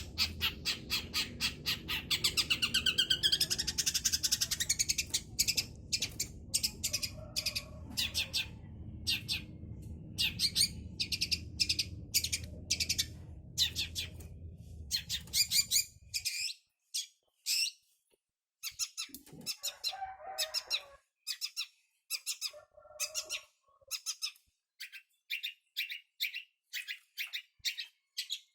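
Young long-tailed shrike (cendet) giving rapid strings of harsh, scratchy chattering notes in bursts with short pauses, practising its song as a juvenile learning to sing. A low steady hum underneath stops about halfway through.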